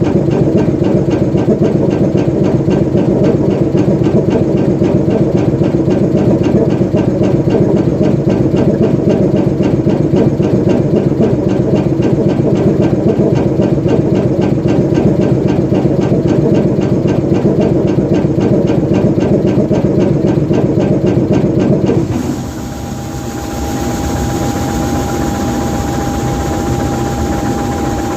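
GE U20C diesel-electric locomotive's twelve-cylinder FDL engine idling, a steady, evenly pulsing run. About 22 seconds in the sound changes abruptly to a quieter running sound with a steady high whine.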